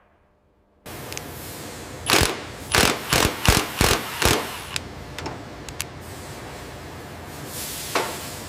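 Factory machinery running steadily, with a quick run of about six sharp mechanical knocks or clanks, followed by a few lighter clicks and one more knock near the end.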